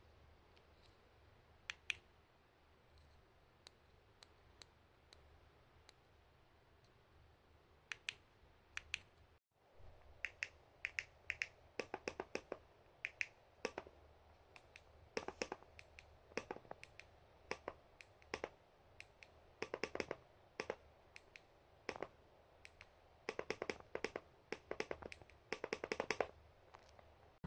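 Sharp clicks of a push-button switch being pressed over and over: a few scattered clicks at first, then from about ten seconds in, frequent clicks, often in quick pairs or short runs.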